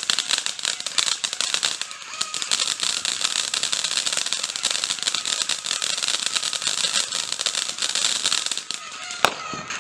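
Fireworks crackling: a dense, rapid run of small pops for about nine seconds, with one sharper bang near the end.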